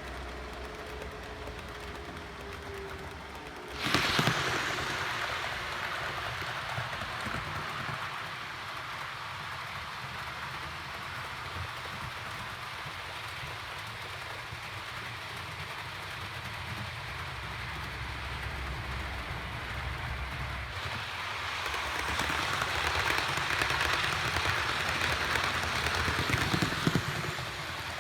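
Model trains running on a layout: a steady rolling rumble and hiss of wheels and motors on the track. It gets suddenly louder about four seconds in and swells again near the end, as a train comes closer.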